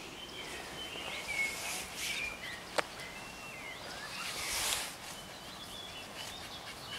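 Outdoor ambience with small birds chirping in short, sliding notes, a single sharp click near the middle, and two brief hissing swells.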